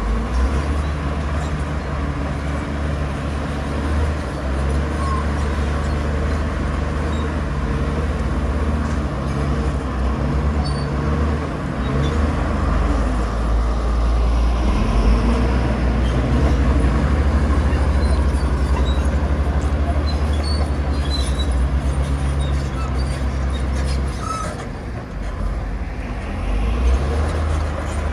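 Bulldozer's diesel engine running steadily under work, easing off briefly a few seconds before the end.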